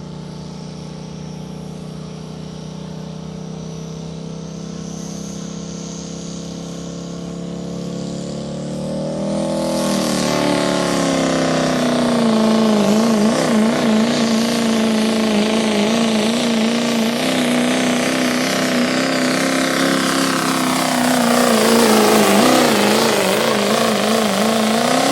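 A pulling vehicle's engine revving up, its pitch climbing slowly for about ten seconds, then held at high RPM under heavy load with a wavering pitch as it pulls the sled. Near the end the pitch sags and climbs again, then the sound cuts off suddenly.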